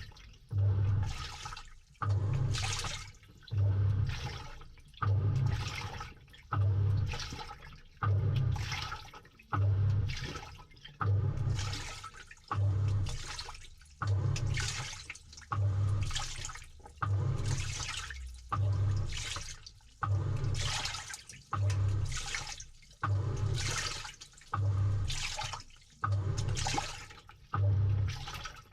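Samsung 6.5 kg top-load washing machine agitating, heard from inside the drum: the pulsator reverses about once a second, and each stroke brings a low motor hum and a surge of water sloshing through the clothes that dies away before the next.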